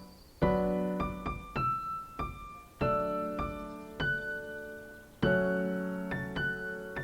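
Background music: solo piano playing slow, sustained chords and single notes, each struck and left to ring and fade.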